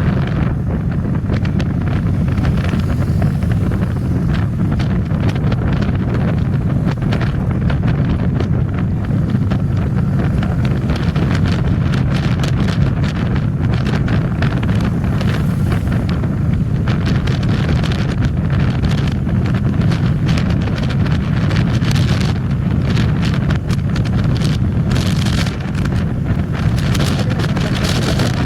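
Wind buffeting the microphone of a moving motorcycle, a steady low rumble with the engine and road noise underneath. From about halfway on, sharp crackles of wind on the microphone come more often.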